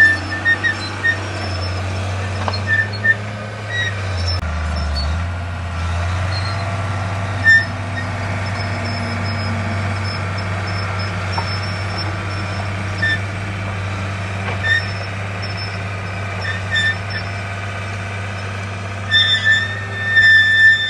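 Heavy diesel earthmoving machinery running steadily, with short high-pitched squeaks breaking in now and then and more often near the end.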